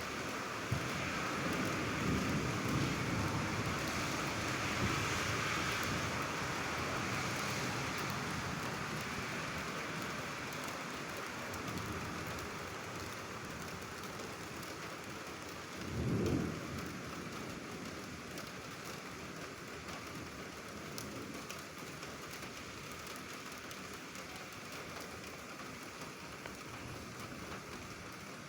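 Steady rain falling in a thunderstorm, with a low rumble of thunder in the first few seconds and a brief low thump about 16 seconds in. The rain slowly eases.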